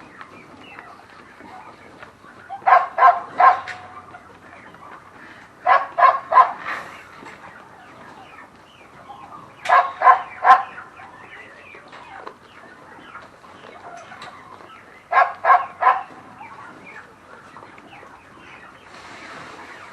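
An animal calling in quick bursts of three or four loud calls, a burst every three to five seconds, over a background of quieter farm-animal noise.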